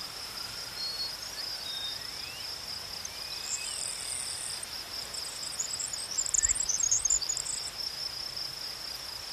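Steady high-pitched insect trill with faint sliding bird whistles, and a scratchy bird chatter about six to seven seconds in.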